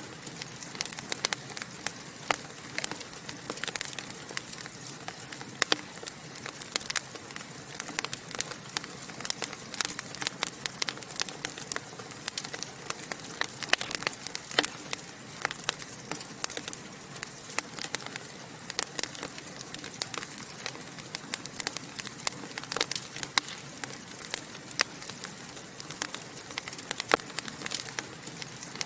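Wood fire burning in a fireplace, crackling and popping with many irregular sharp snaps over a steady low hiss of the flames.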